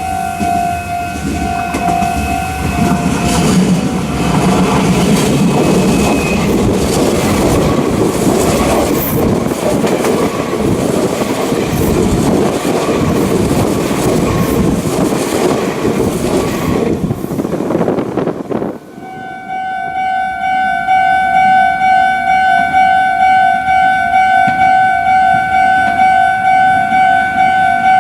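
Meitetsu 2000 series μSKY eight-car electric train passing through at speed: a long rush of rumble and wheel clatter that ends suddenly near two-thirds of the way in. A pulsing electronic warning tone sounds before the train noise builds and again after it stops.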